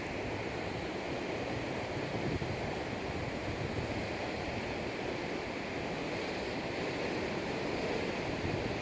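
Ocean surf washing in as a steady, even noise.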